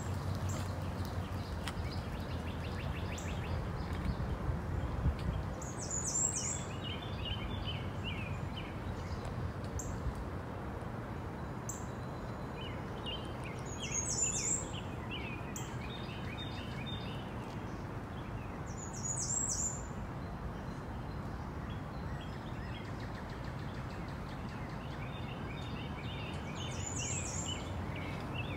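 Birds calling: a short high call repeated every five to eight seconds, with bouts of lower twittering in between, over steady outdoor background noise.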